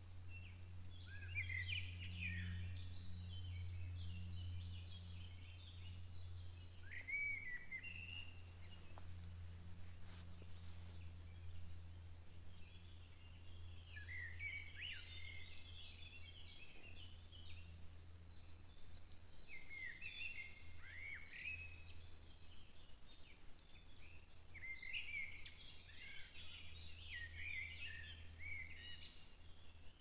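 Songbirds singing: clusters of short chirps and trills come in phrases every few seconds, over a steady low hum.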